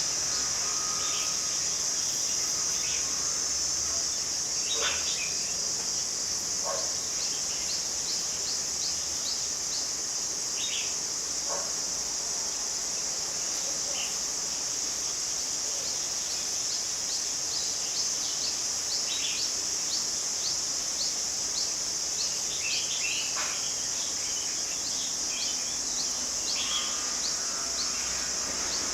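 Steady, high-pitched drone of insects, with short bird chirps and calls scattered through it.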